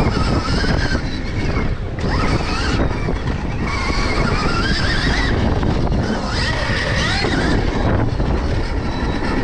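Stark Varg electric dirt bike's motor whining, its pitch rising several times as the throttle is opened, over heavy wind noise on the microphone and the rumble of the bike over the track.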